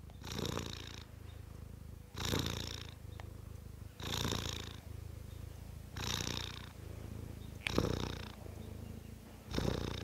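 Domestic cat purring close up: a steady low rumble that swells louder and breathier about every two seconds, with each breath.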